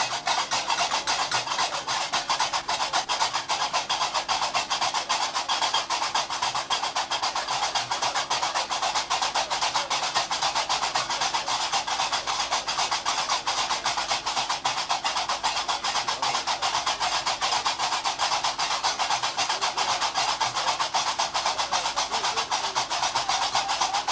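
Gnawa music: qraqeb iron castanets clattering in a fast, even rhythm throughout, with a low steady hum beneath.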